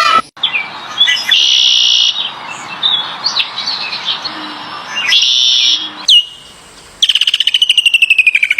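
Bird calls: two loud, high, drawn-out calls about a second in and about five seconds in, with short gliding notes between them, then a rapid pulsing trill that falls in pitch near the end.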